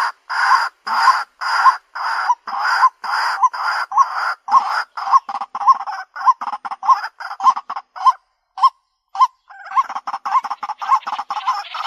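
White-breasted waterhen calling: a long run of short repeated call notes, about two and a half a second at first, growing faster and shorter. They thin to a few spaced notes with a brief pause past the middle, then resume as a quicker, denser series.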